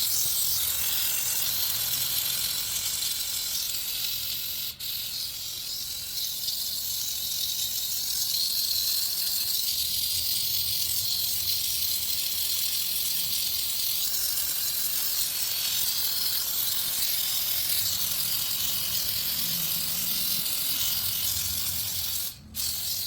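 Steam cleaner jetting steam onto grimy patio surfaces with a steady hiss, loosening the greasy dirt; it cuts out briefly near the end.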